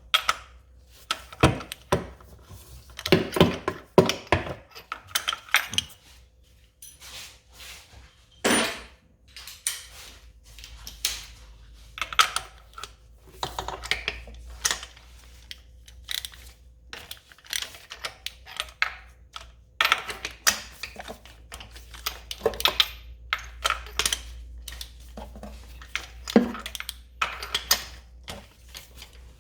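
Metal hand tools and engine parts clinking and knocking irregularly while spark plugs are taken out of an engine, with one louder ringing clank about a third of the way in.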